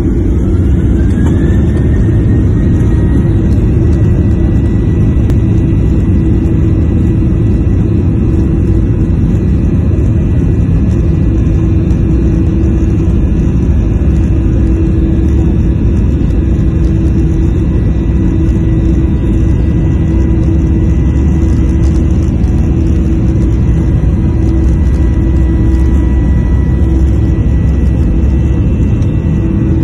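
Boeing 737-800's CFM56-7B turbofan engines at takeoff power: a loud, steady rumble with a whine that rises over the first two seconds and then holds steady.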